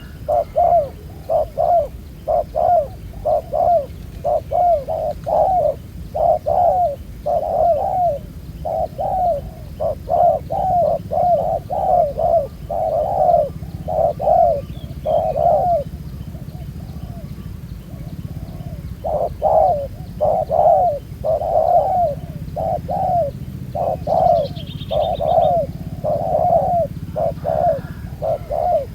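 Spotted doves cooing in repeated, closely spaced phrases, with a pause of about three seconds in the middle.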